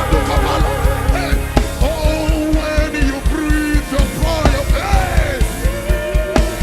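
Live gospel worship music from a band: a fast, steady drum-and-bass beat at about four pulses a second, under a voice singing held and sliding notes.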